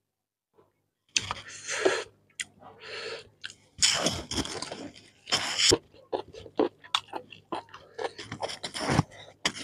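Close-miked chewing and crunching of a curried chicken head, wet mouth sounds mixed with many small crunches of bone and cartilage, starting about a second in.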